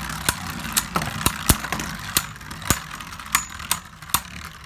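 Two Beyblade Burst spinning tops whirring in a plastic stadium, knocking together with about a dozen irregular sharp clicks as they clash.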